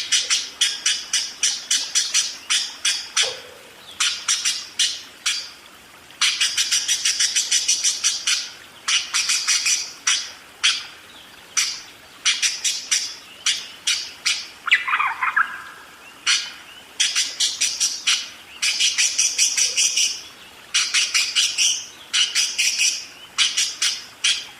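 Budgerigar chattering in rapid runs of high chirps and clicks, in bursts a second or two long with short breaks between them. About halfway through there is one falling call.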